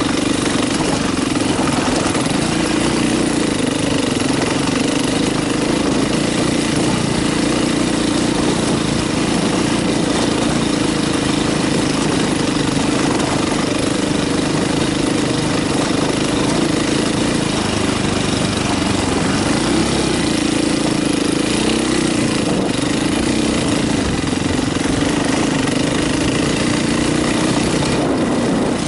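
Dirt bike engine running steadily while the bike is ridden along a rocky trail.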